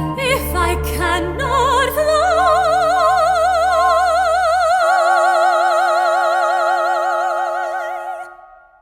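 Soprano voice holding one long high note with wide vibrato over instrumental accompaniment, the song's final note. The bass drops out about halfway, and the sound fades away near the end.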